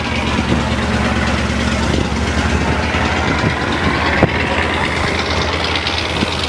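Engine of a Mekong slow boat running steadily at low revs, a low hum with a light rapid pulse, and a single sharp knock about four seconds in.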